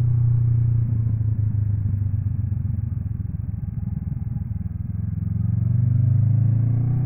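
Honda NX 500's parallel-twin engine heard from the rider's position while riding. The throttle eases about a second in and the engine runs quieter for a few seconds. Near the end it pulls again with a rising note.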